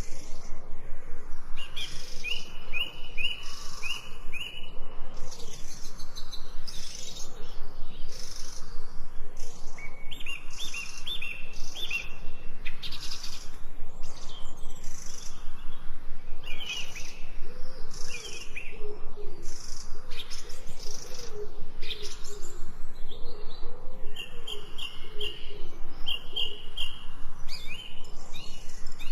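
Birds chirping and singing, with quick runs of short high chirps repeating throughout and lower, wavering calls in the middle stretch.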